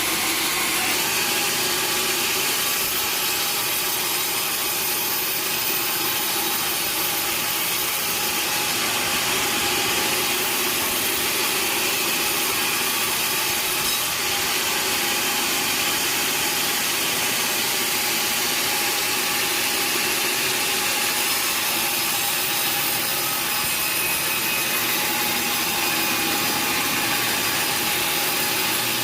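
Sawmill saw cutting through teak wood, a steady, continuous sawing noise with no breaks.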